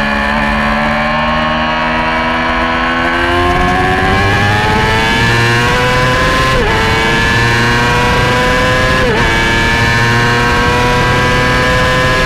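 Yamaha YZF-R6 600 cc inline-four racing motorcycle engine at high revs under hard acceleration, its pitch climbing steadily. A brief dip in pitch comes at each quick upshift, about six and a half and nine seconds in and again at the end.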